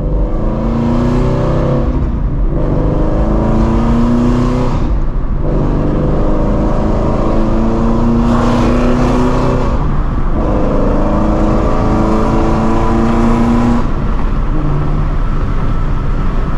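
Ford Shelby GT350's 5.2-litre flat-plane-crank V8, straight-piped with long-tube headers, accelerating hard through the gears. The exhaust note climbs in pitch in each gear and drops at each of about four upshifts, then settles into steadier running near the end.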